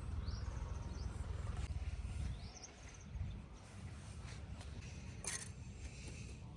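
Outdoor ambience: a low rumble that drops away about two and a half seconds in, a few short rising bird chirps, and a sharp click near the end.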